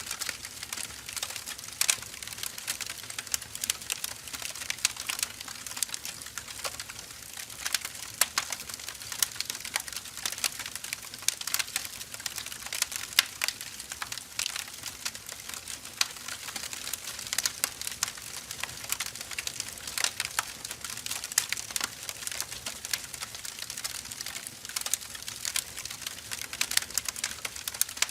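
Firewood burning, crackling and popping in dense, irregular clicks over a soft steady hiss.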